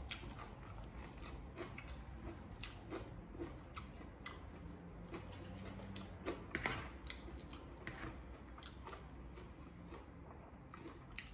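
A person chewing crunchy food: many short, irregular crunches and clicks, with a louder cluster about six and a half seconds in.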